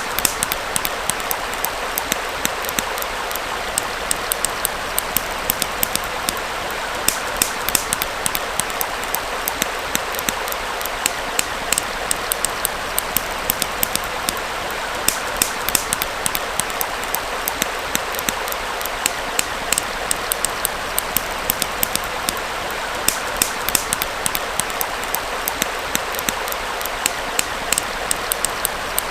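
Wood fire crackling with frequent, irregular sharp pops over the steady rush of a small stream.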